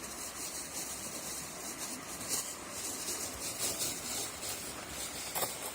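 Rustling and light handling of camping gear, a rough hiss with a single knock near the end.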